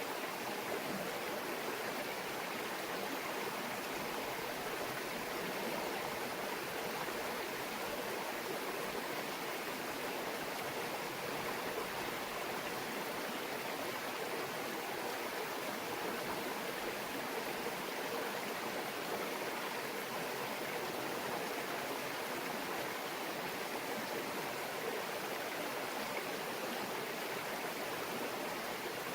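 A small mountain brook babbling: water running over stones, a steady, even rush with no breaks.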